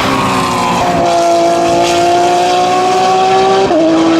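GT race car engine running hard on the circuit: its note slides down in the first second, then climbs steadily under acceleration and drops sharply near the end as it shifts up a gear.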